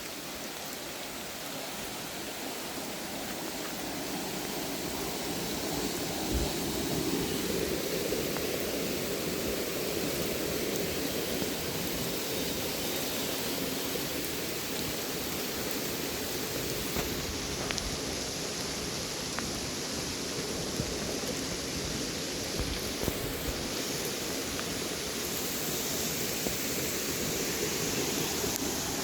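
Steady rainfall in a forest: an even hiss that grows a little fuller after a few seconds, with a few sharper ticks of single drops.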